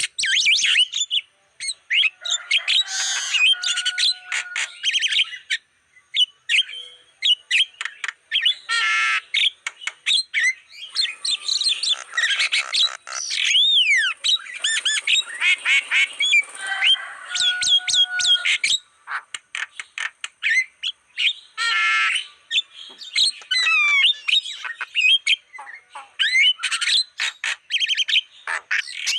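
Javan myna (jalak kebo) singing a long, varied song of harsh squawks, rapid clicking chatter and gliding whistles, in bursts broken by short pauses.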